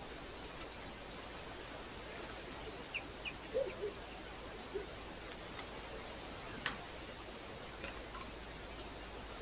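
Steady hiss from a trail camera's microphone, with a few faint short chirps and soft taps about three to four seconds in and one sharp click a little later.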